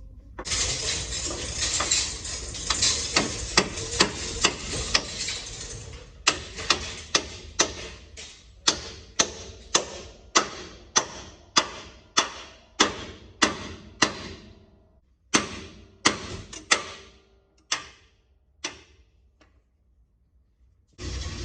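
Hammer blows ringing on steel, about two a second, over a steady rushing noise for the first few seconds; the blows then carry on alone, come further apart and stop near the end.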